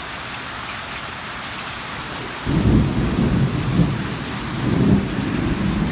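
Heavy rain mixed with hail hissing steadily. About two and a half seconds in, a long rumble of thunder sets in and rolls on in waves.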